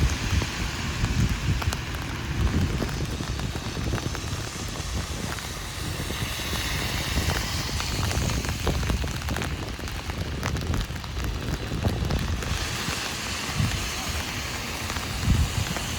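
Heavy rain falling on an umbrella, a steady hiss of drops, over an uneven low rumble.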